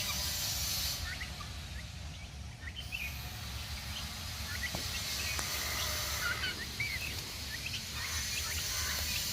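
Turkeys calling: scattered short, high chirping calls come and go throughout, over a steady low hum.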